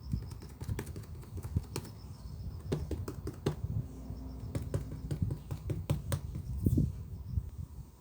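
Slime being squished and pressed by hand, making irregular sharp clicks over soft handling noise.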